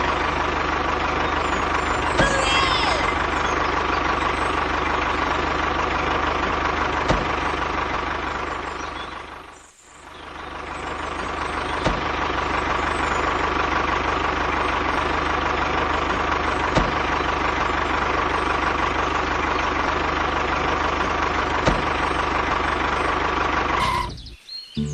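Tractor engine running steadily with an even hum. It fades out about ten seconds in, comes back up, and cuts off sharply just before the end.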